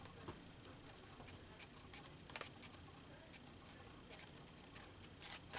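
Near silence with faint, scattered ticks and rustles of paper being handled, one slightly louder about halfway through.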